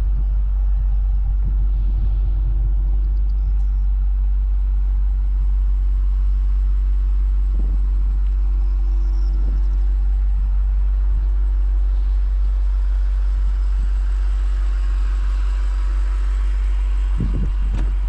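BMW X5 M (F95) with its twin-turbo V8 driving along: a steady low cabin rumble with an even engine hum. Tyre and wind hiss grows stronger in the last few seconds.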